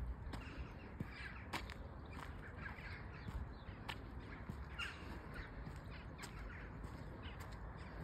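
Birds calling overhead in short, sharp calls at irregular intervals, over a steady low rumble.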